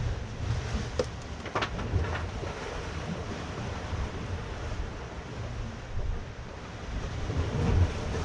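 Wind buffeting the microphone over a steady wash of sea surf, with a few short knocks or scuffs about a second or two in.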